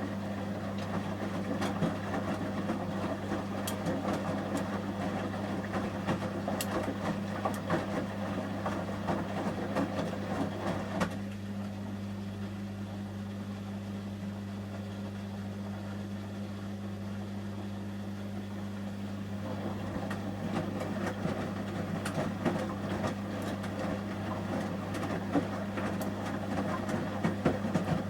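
Samsung front-loading washing machine in the heated wash stage, its drum tumbling a load of shirts in water with sloshing and small clicks over a steady low hum. The drum turns for about ten seconds, rests for several seconds, then turns again.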